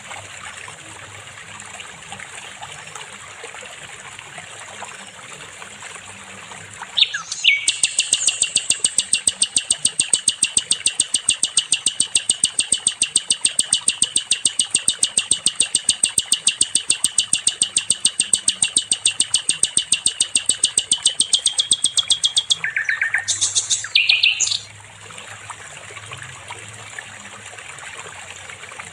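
A songbird sings one long, very fast trill of rapidly repeated high notes, starting about a quarter of the way in and lasting roughly fifteen seconds. Two short, separate phrases follow, with fainter chirping before and after.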